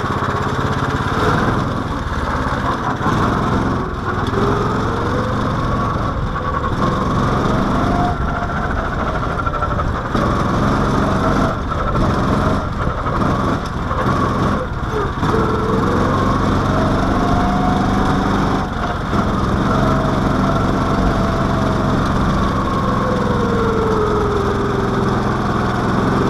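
Mini-baja car's small single-cylinder engine running as the car is driven, its pitch rising and falling slowly several times with changes in speed.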